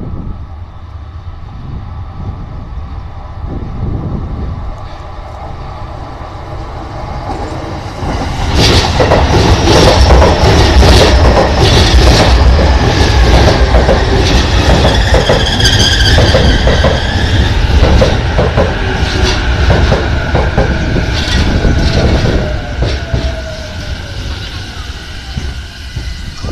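JR East E233 series 5000 electric train arriving at a station. Its rumble builds as it approaches, then from about eight seconds in its wheels clatter loudly over the rail joints as the cars run past. Near the end a motor whine falls in pitch as the train brakes to a stop.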